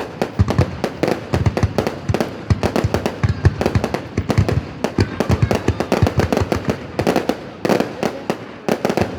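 Fireworks going off in a dense, rapid string of sharp bangs and cracks, many a second, easing slightly near the end.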